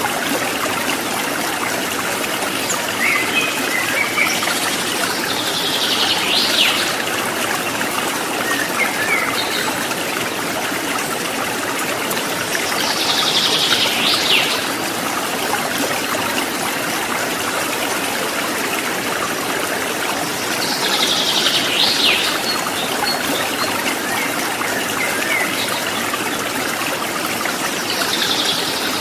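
Water trickling and splashing steadily. A bird calls over it about every eight seconds, each call a short quick sweep, with a few fainter chirps in between.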